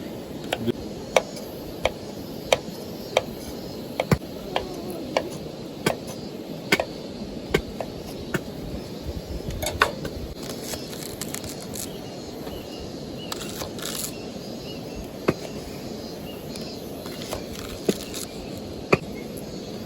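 Wood campfire crackling: sharp, irregular pops and snaps over a low steady hiss.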